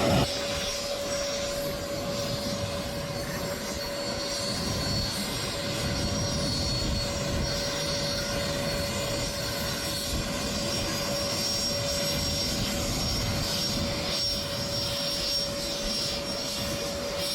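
Aircraft engine running with a steady whine held at one pitch over a rumbling noise, without rising or falling.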